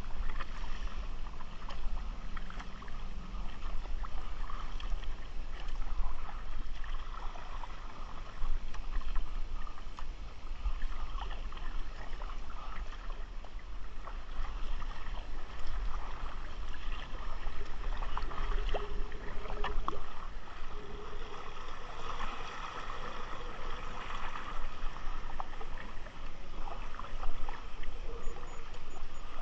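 Water sloshing and splashing around a kayak on the move, with a steady low wind rumble on the microphone.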